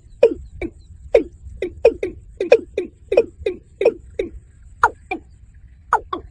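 Watercock (kora) calling: a rapid series of short notes, each dropping in pitch, about two or three a second, with a brief pause near the end.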